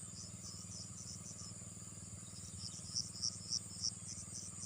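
Insects chirping in short regular pulses over a steady high-pitched drone, with four louder chirps a little past the middle, all over a steady low hum.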